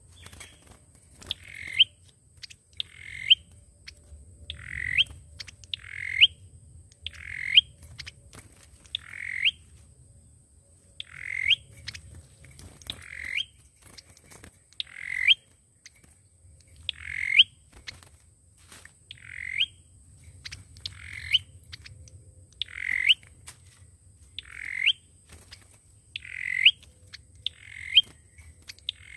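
Sâu dừa bird giving a repeated harsh call about every one and a half to two seconds, each note rising in pitch and ending with a sharp upward flick.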